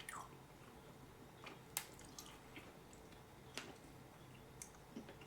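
Faint wet mouth clicks and smacks of someone chewing a piece of candy, a handful of short sounds spread out.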